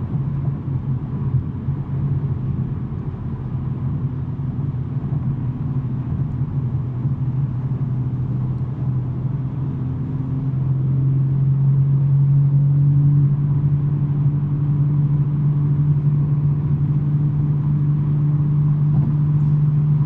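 BMW M3 G80's twin-turbo inline-six with non-resonated J-pipes droning steadily while driving, over road noise. The drone gets louder about halfway through and stays there.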